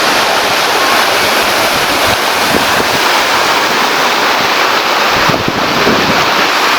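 Loud, steady rush of river water, with wind buffeting the microphone in irregular low thuds.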